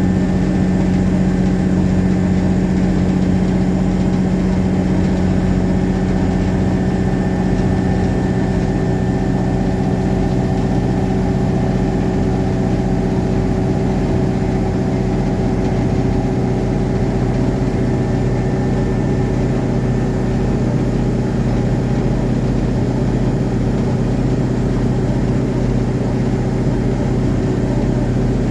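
Revathi C650D drill rig's diesel engine running steadily at a constant speed, a loud, even machine hum with no change in pitch.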